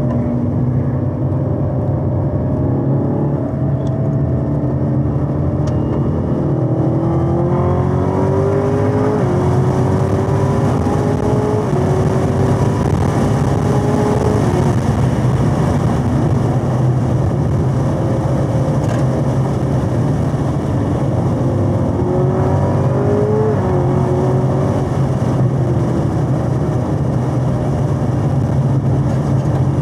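2021 Chevrolet Camaro ZL1 1LE's supercharged 6.2-litre V8 under full-throttle acceleration, heard inside the cabin. The engine note climbs in steps through two upshifts, then falls away as the throttle is lifted for braking. Later it rises briefly once more before dropping again, over a steady low road drone.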